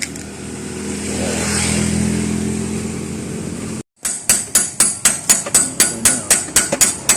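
An engine running steadily, growing louder and then easing off. After a cut, a hammer strikes metal in a quick, even series of about four blows a second, as in driving motorcycle swing-arm bushings.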